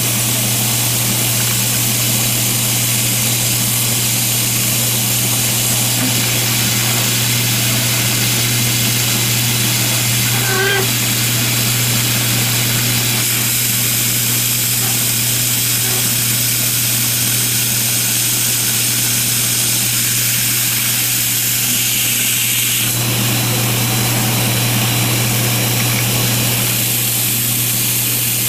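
A motor running steadily with a low hum and a constant hiss; its tone changes slightly past the middle.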